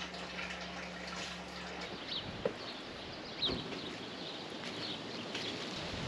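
Quiet outdoor ambience with a few faint, short bird chirps, after a low steady hum that stops about two seconds in.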